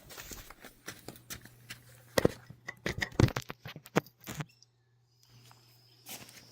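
A string of footsteps and handling knocks, loudest about two to three and a half seconds in, over a faint, steady low hum.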